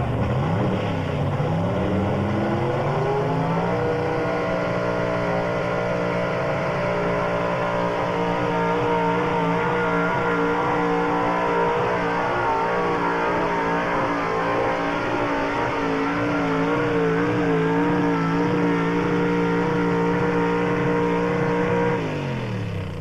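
Gas pulling truck's engine under full load on a pull: it bogs briefly at the start, revs up over a few seconds, then holds at high revs with a slight waver. About a second before the end it falls off as the throttle is let off.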